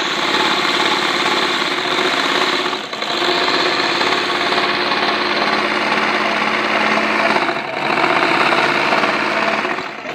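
Electric sewing machine running and stitching in three spells, with short pauses about three and eight seconds in. It is sewing properly again, its displaced rotary hook having been put back in place and screwed down.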